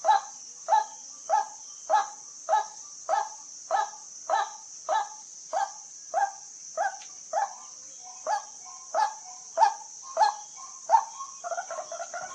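White-breasted waterhen giving its repeated call, a short note repeated evenly about twice a second. Near the end it breaks into a faster, denser run of calls. A steady high insect hiss runs underneath.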